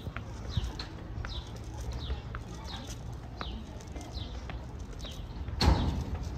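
A small bird chirping over and over: short, high, falling chirps about twice a second. A single loud thump comes about five and a half seconds in, with faint clicks scattered through.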